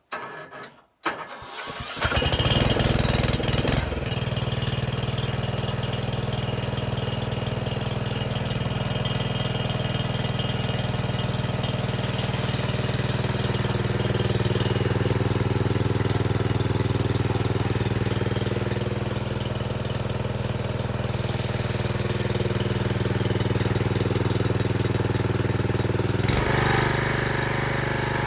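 Ride-on mower's replacement engine, started with its safety switches bypassed, catches about two seconds in after brief cranking and then runs steadily. Near the end its sound changes, with more high-pitched noise added.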